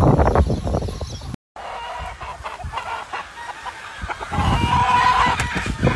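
Gamefowl chickens clucking, with a rooster crowing in a long held call near the end. The sound cuts out completely for a moment about a second and a half in.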